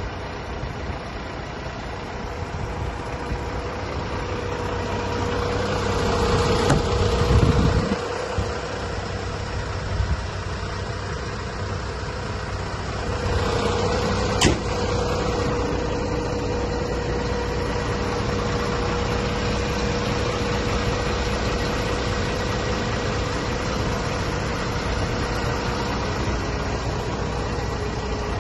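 Renault Premium 270.19 truck's diesel engine idling steadily. It swells louder for a few seconds about a quarter of the way in, then drops back sharply, and there is a single sharp click about halfway through.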